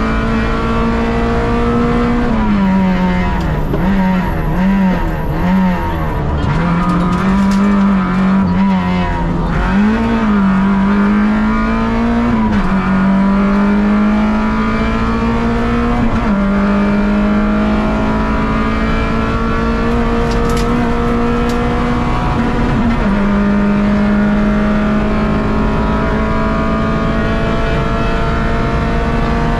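Peugeot 106 rally car's four-cylinder petrol engine at hard throttle, heard from inside the cabin. The revs waver up and down for the first ten seconds, then climb steadily with three sudden drops at upshifts as the car accelerates.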